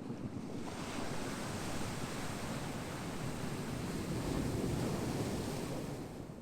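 Ocean surf: a steady low rumble, with a wave's hissing wash swelling about a second in and receding near the end.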